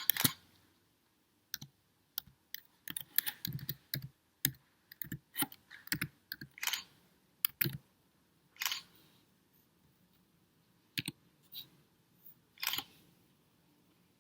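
Irregular series of short clicks and knocks, several in quick succession at times, then sparser, with the loudest knocks near the start and about twelve and a half seconds in.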